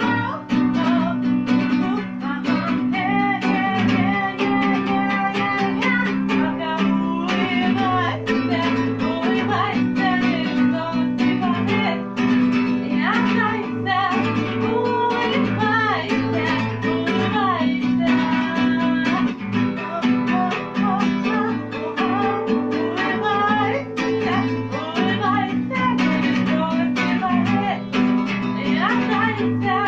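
Acoustic guitar strumming chords while a voice sings a melody over it.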